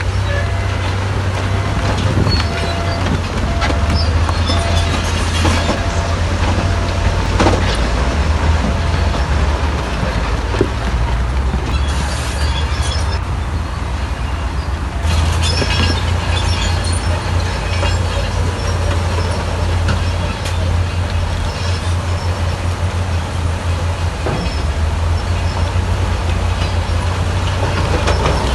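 Heavy earthmoving machinery, a bulldozer with dump trucks, running steadily with a deep diesel rumble and scattered clanks. A repeating beep sounds for the first several seconds.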